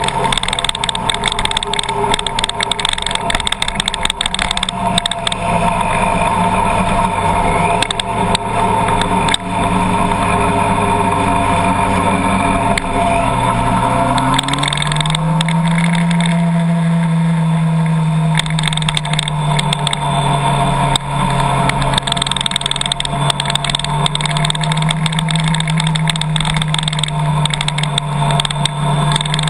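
Car engine running steadily, its pitch rising about halfway through as it speeds up and then holding at the higher pitch, with many small clicks throughout.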